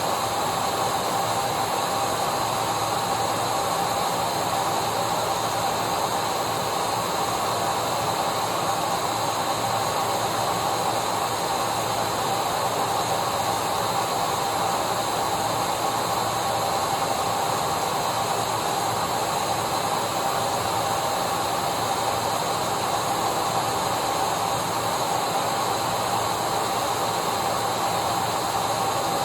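Vacuum cleaner running steadily, a continuous whoosh of motor and airflow with a constant whine, unchanging throughout.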